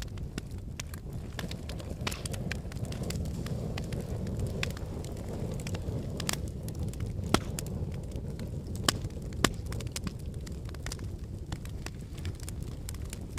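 Wood logs burning in a fireplace: a steady low rumble of flames with frequent sharp crackles and a few louder pops around the middle.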